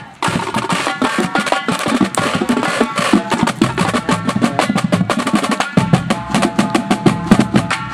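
Drum corps percussion playing a fast, loud passage: rapid drum strokes with mallet keyboards ringing over them. It starts abruptly.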